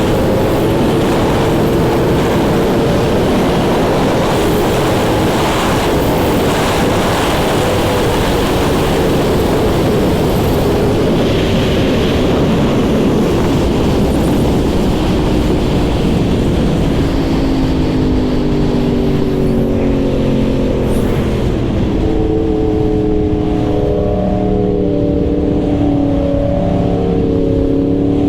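Yamaha R1 inline-four engine running on the move, heard under heavy wind rush on the microphone. About two-thirds of the way in, the wind rush fades and the engine note comes through clearly, holding steady pitches that change in steps.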